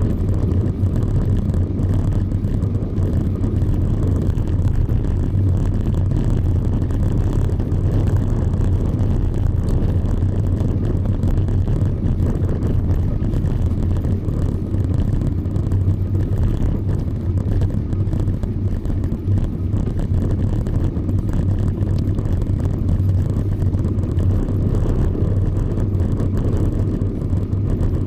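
Steady low rumble of wind buffeting a camera's microphone on a moving bicycle, mixed with road noise.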